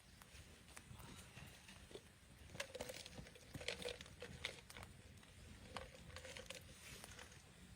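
Faint crunching and clicking handling noises in two short clusters, one about a third of the way in and a shorter one later.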